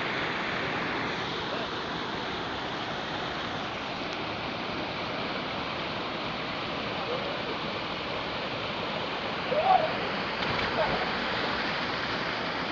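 River water rushing steadily. A few short vocal sounds, the loudest about ten seconds in, break over it.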